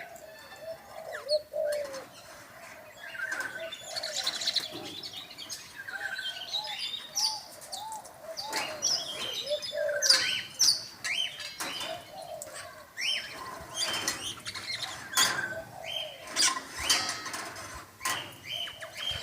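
Australian king parrots calling with a stream of short, soft chirps and whistles, overlaid by frequent sharp clicks and flutters.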